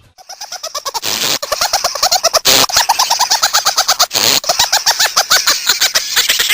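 Loud, rapid chattering of short pitched chirps, several a second, each one rising and falling in pitch, like a bird call.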